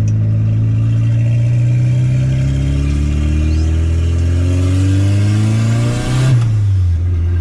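Turbocharged VW Gol's AP four-cylinder engine pulling under acceleration, its pitch rising steadily for about six seconds, then falling back near the end and running steady. It carries an abnormal engine noise that the driver later traces to a failing water pump.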